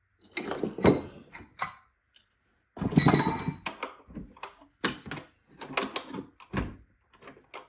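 Metal tools and small parts clinking and knocking against each other and the steel drawers of a Kennedy machinist's tool box as they are handled and put back: a string of separate sharp clicks and clunks, some with a short metallic ring.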